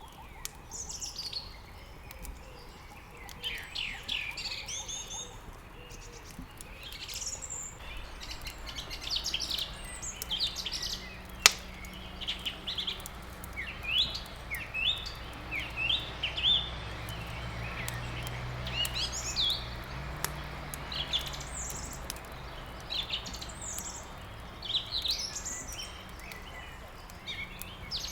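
Songbirds chirping and warbling continuously over the crackle of a wood fire, with one sharp loud pop from the burning wood about a third of the way in. A low steady rumble from the fire comes in after the first quarter.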